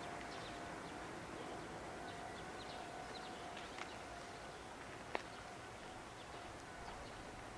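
Faint outdoor ambience: scattered short bird chirps over a quiet steady hiss and a thin steady tone, with one sharp click about five seconds in.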